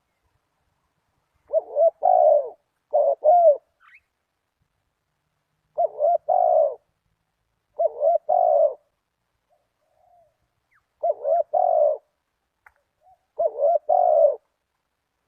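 Spotted dove cooing: six short phrases of its rolling coo, each about a second long, spaced a second or two apart.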